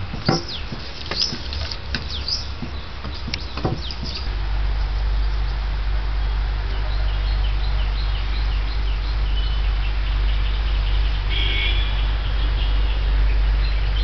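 Birds chirping outdoors, with a few sharp knocks in the first seconds, then a steady low rumble that sets in about four seconds in and continues under the birdsong.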